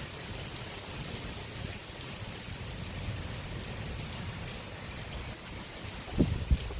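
Heavy rain falling in a steady hiss, with a low rumble underneath. Two brief low thumps come close together near the end.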